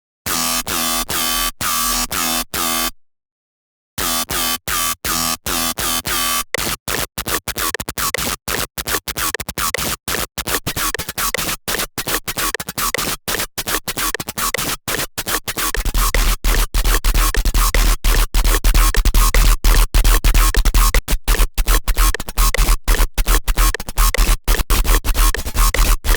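Serum wavetable synthesizer patch being auditioned: a buzzy electronic tone played in short repeated stabs that pause briefly, then resume and speed up into a rapid stutter. About 16 seconds in, a deep sub-bass layer joins the stutter.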